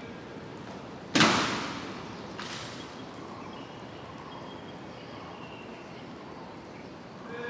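A single sharp crack from an honor guard's drill move, with a ringing, reverberant tail. About a second later comes a fainter second strike.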